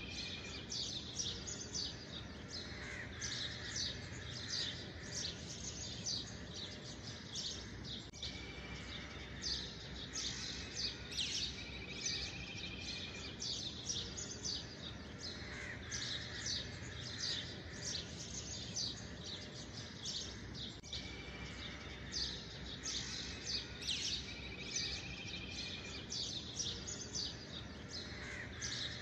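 Birdsong: many quick high chirps, with a short trill that recurs every twelve seconds or so, over a steady low hiss.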